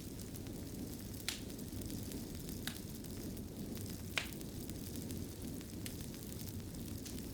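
Wood fire burning in a fireplace: a steady low rumble of flames with a few sharp crackling pops, the loudest about a second in and again about four seconds in.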